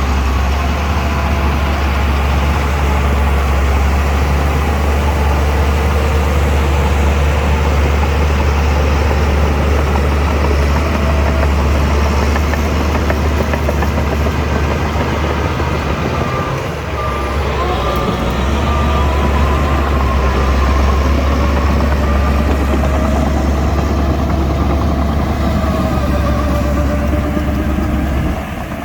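Shantui DH17C2 crawler bulldozer's diesel engine running steadily with a deep rumble, easing off briefly about halfway through. A faint wavering whine rides above it.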